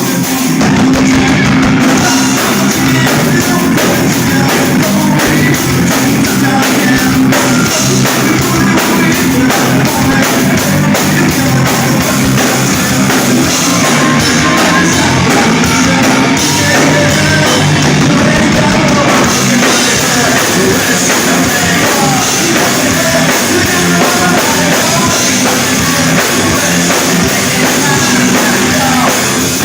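Live rock band playing loud, with distorted guitars, drum kit and singing.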